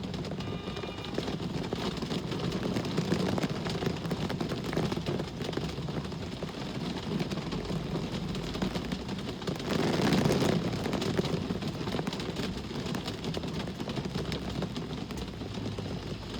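Steady rain falling, with road traffic: a vehicle passes, swelling to its loudest about ten seconds in and then fading.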